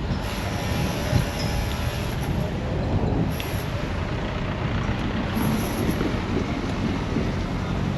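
Steady rumble of a motor vehicle running close by, with a faint engine tone in the first couple of seconds.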